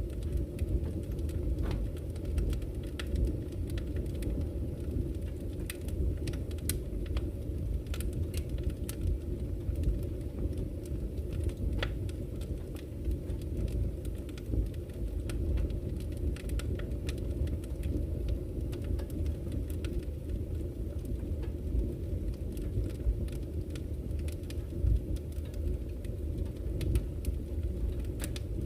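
Wood campfire crackling, with scattered sharp pops, over the steady low rush of a flowing river.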